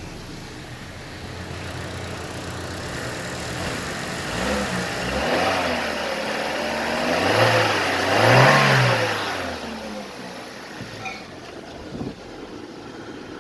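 2016 Chevrolet Cruze engine, about 52,000 miles on it, idling, then revved up and let back down several times before settling back to a steady idle. A couple of light clicks near the end.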